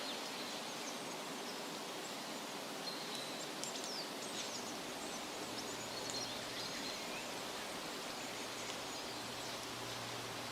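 Woodland ambience: a steady rustle of wind through leaves, with scattered short, high bird chirps.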